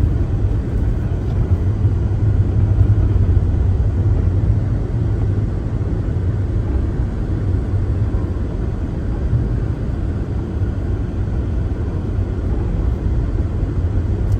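A car driving on a snow-covered road: a steady low rumble of engine and tyres.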